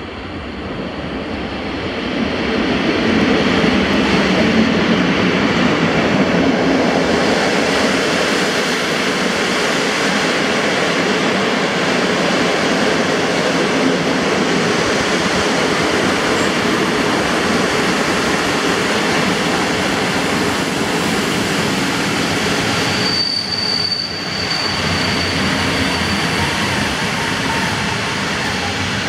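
Long passenger train hauled by an electric locomotive running in past the platform. The sound builds over the first few seconds into a steady, loud rumble and rush of wheels on rails. A thin, high wheel squeal comes in for a few seconds near the end.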